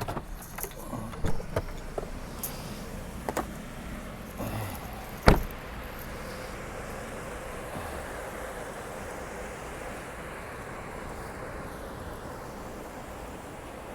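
Getting out of a pickup truck: a few small clicks and rattles, then the door shut with one hard thump about five seconds in, followed by steady outdoor background noise.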